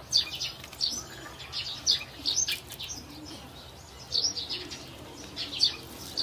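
Small birds chirping: short, high chirps coming in irregular runs, the louder ones roughly once a second.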